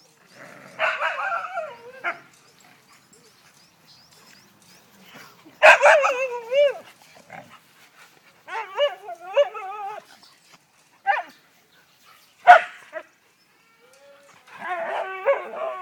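Sled dogs vocalising in play: bouts of whines, yips and barks with wavering pitch, and a single sharp bark about two-thirds of the way through that is the loudest sound.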